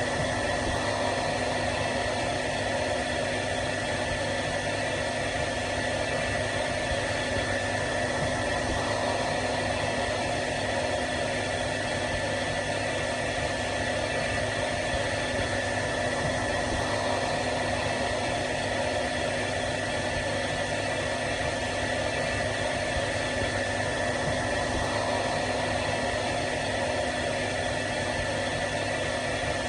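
Hair dryer running continuously: a steady blowing rush of air with a constant motor whine, unchanging throughout.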